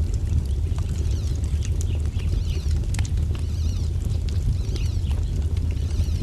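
Wood fire crackling with scattered sharp pops over a steady low rumble, while small birds chirp and sing, most of it in the middle.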